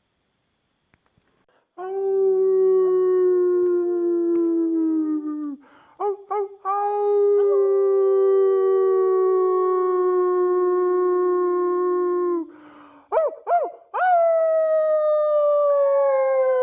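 Howling: several voices hold long drawn-out notes of four to five seconds each, sometimes overlapping. The last note slides slowly down in pitch.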